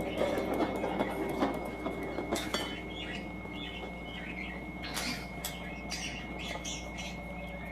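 A bird's short squawks and chirps mixed with scattered clicks and taps, over a faint steady high whine.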